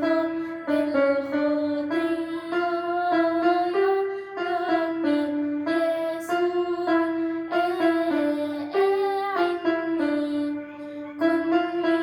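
Arabic Christian hymn: a young girl singing a slow melody of held notes over keyboard accompaniment.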